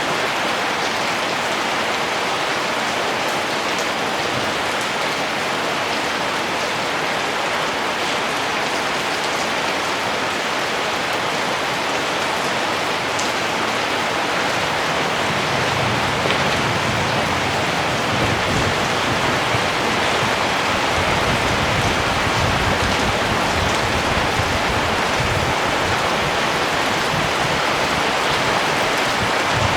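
Steady rain falling, an even hiss. A low rumble comes in about halfway through and stays.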